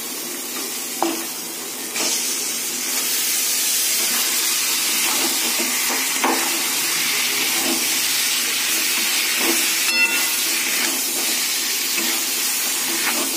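Chicken pieces sizzling in hot oil and masala in a steel kadai, the steady sizzle starting about two seconds in as they go into the pan. A metal spatula knocks and scrapes against the pan a few times as it stirs.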